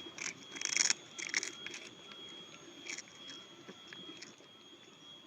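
Cat crunching and chewing onion crackers: a quick run of crisp crunches in the first second and a half, another about three seconds in, then fainter chewing. A faint steady high-pitched whine sits underneath.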